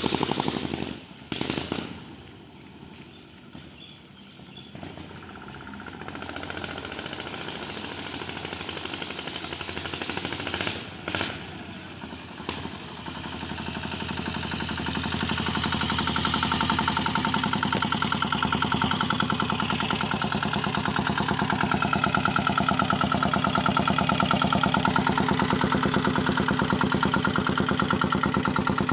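Mini bike's small diesel engine: it runs loudly, drops away about a second in, and after a quieter stretch with a few sharp knocks near the middle it comes back up to a steady, even-beating run through the second half.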